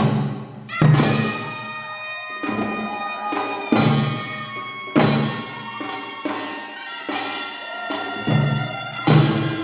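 Korean traditional ensemble music: double-reed wind instruments hold a sustained, wavering reedy melody over percussion strokes that come roughly once a second at uneven intervals, each with a low drum thud.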